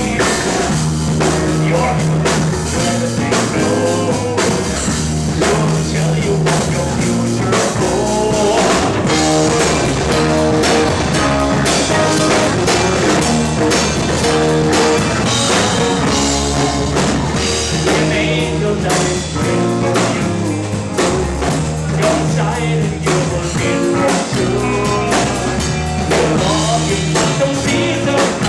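Live rock band playing with drum kit and guitar, with some singing.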